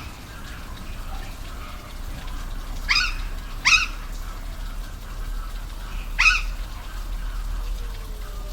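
Waterfall running steadily, with three short, arched bird calls over it: two close together about three seconds in and one more about six seconds in.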